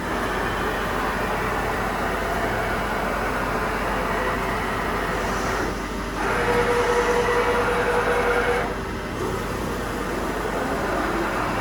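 Hauser SIP MP 53 CNC jig boring machine running, a steady mechanical noise from its drives. About halfway through it gets louder for a few seconds with a steady whine, and near the end a whine rises in pitch as a drive speeds up.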